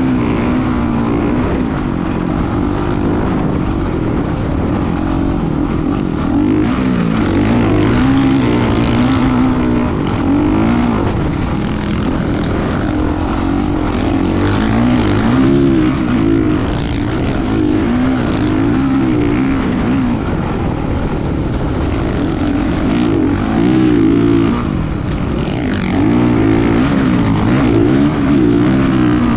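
Motocross bike engine running under way, its pitch rising and falling again and again as the throttle is worked, over a constant rushing noise.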